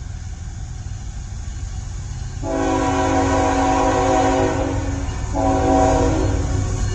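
CN freight locomotive's multi-chime air horn sounding a long blast about two and a half seconds in, then a second long blast after a brief break: the start of the grade-crossing horn signal. Under it is the low rumble of the approaching train.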